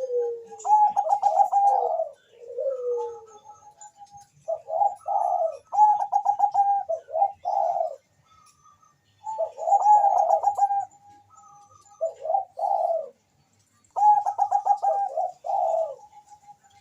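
Zebra dove (Bangkok-bred perkutut) cooing its song: four phrases about two seconds each, every phrase a quick run of stuttering notes followed by lower falling coos.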